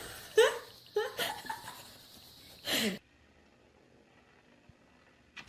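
A person laughing in short bursts, then a sudden cut to near silence about three seconds in.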